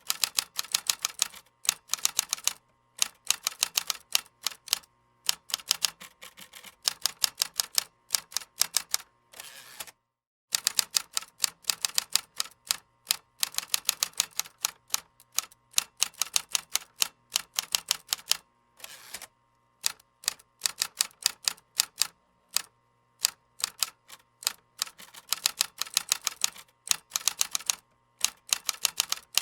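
Typing on a computer keyboard: rapid runs of key clicks in bursts with short pauses between them, and a brief silent break about ten seconds in.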